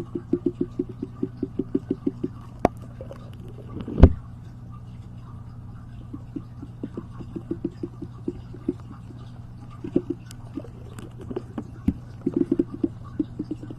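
Rapid light tapping in runs of about six taps a second, with pauses between runs, over a steady low hum; one louder knock about four seconds in.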